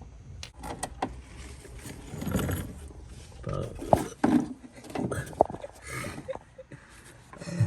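Hot engine oil splashing out of a car's sump drain hole into a drain pan, with scattered metallic clinks and muffled voices.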